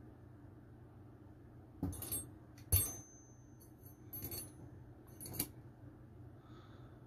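Metal parts clinking and rattling against each other as they are handled, in a handful of sharp clinks about two, three, four and five seconds in; one clink leaves a thin high ring for a second or so.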